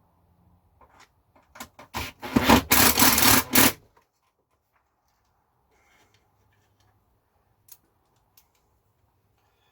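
Parts being handled and fitted on a workbench: a few sharp clicks, then about a second and a half of loud rubbing and scraping, then only faint ticks.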